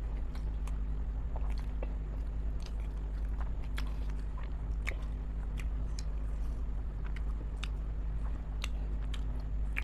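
A person chewing chicken momos (dumplings), with scattered short wet mouth clicks over a steady low hum.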